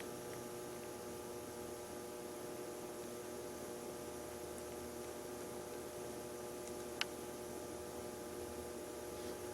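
Faint steady electrical hum and hiss of room tone, with one sharp click about seven seconds in.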